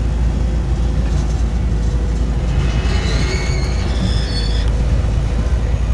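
Miniature park train running, heard from one of its open passenger cars: a steady low rumble of the cars on the track. Brief high squeaks come between about three and four and a half seconds in.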